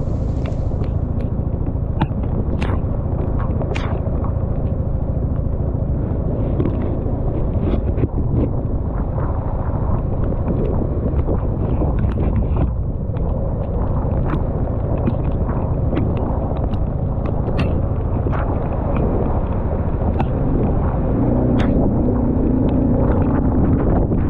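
Motorcycle riding through a hailstorm: a steady low rumble of wind and engine, with scattered sharp ticks of hailstones striking the bike and rider. A steadier low engine hum comes up near the end.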